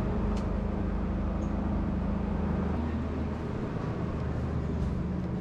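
Diesel train standing at the station platform: a steady low rumble with a constant hum that drops away about halfway through.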